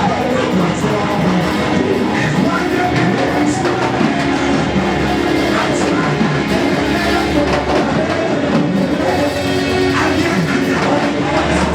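Live worship band playing, with guitar over drums at a steady, full level.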